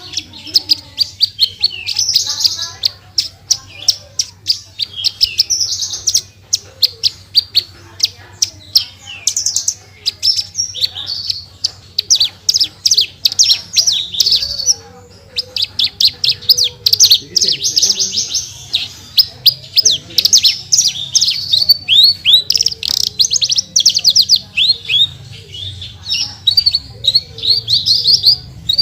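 Branjangan (Javan bush lark) singing a continuous, rapid-fire song of sharp high chirps and fast trills, the 'tembakan' bursts prized by bird keepers, with a brief break about halfway through.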